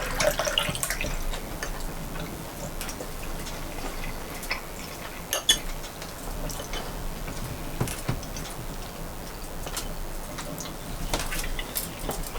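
Cutlery clinking against plates now and then during a meal, a scatter of short light clicks.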